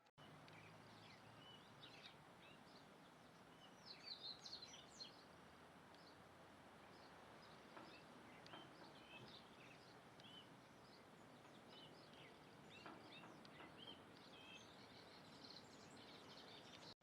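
Small birds chirping: many short, high calls scattered throughout over a steady background hiss, busiest about four seconds in and again near the end.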